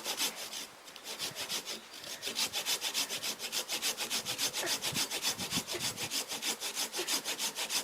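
Husqvarna hand saw cutting through dead wood with rapid, even back-and-forth rasping strokes, several a second. The strokes break off briefly about one and two seconds in.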